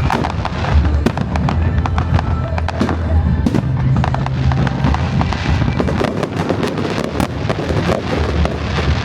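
Fireworks bursting and crackling in quick succession, many sharp pops close together, over music with a deep, steady bass.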